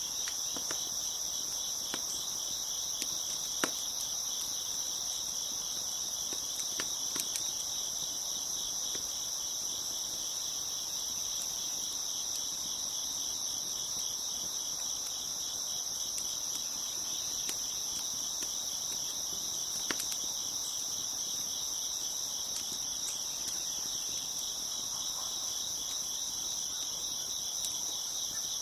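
A dense chorus of crickets chirping steadily in a fast pulsing trill, with a few sharp pops from a crackling wood fire scattered through it.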